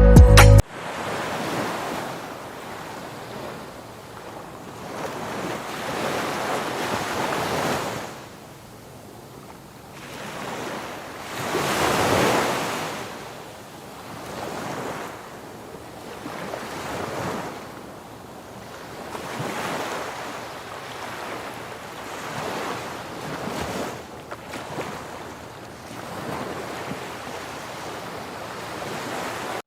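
Sea waves washing onto the shore, a rushing surge that swells and fades every few seconds.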